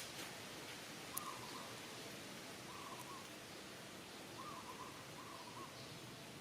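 Bird calling in the background, giving four short mid-pitched notes spaced a second or so apart over a steady hiss, with one sharp click about a second in.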